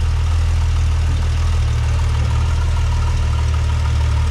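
Hemi engine of a 1969 International pickup running steadily at idle.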